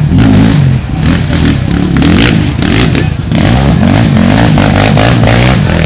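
Racing ATV engines revving hard and rising and falling in pitch as the quads accelerate, with clattering and knocking noises about two to three seconds in.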